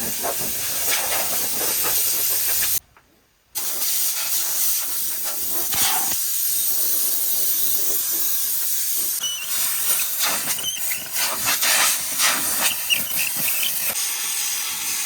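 Compressed-air blow gun hissing as it blows dust and chaff off a combine harvester, with the air stopping briefly about three seconds in.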